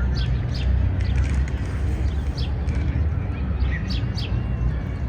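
Park birdsong: small birds chirping in short, quick repeated notes, several a second, over a steady low rumble of city background noise.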